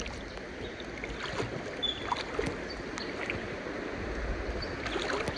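Flowing river water with small splashes and scattered knocks.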